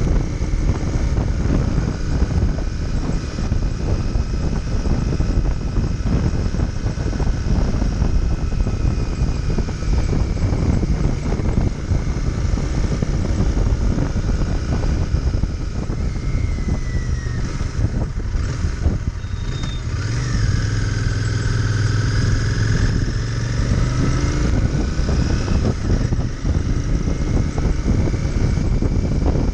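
Royal Enfield Interceptor 650's parallel-twin engine running on the move, with wind rushing past the microphone. About two-thirds of the way through, the engine note dips and then climbs again as the rider eases off and picks up speed.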